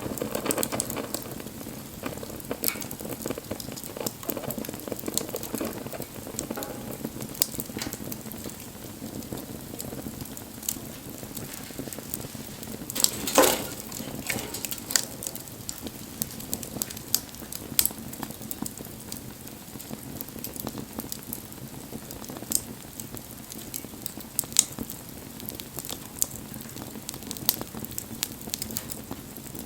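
Wood campfire burning: a steady hiss with scattered crackles and pops from the burning wood. A louder cluster of pops comes about halfway through.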